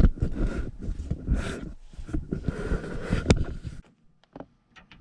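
Irregular scraping and rustling with scattered sharp clicks from hands and tools working inside a furnace cabinet, with one loud click a little over three seconds in. The noise cuts off suddenly near the end.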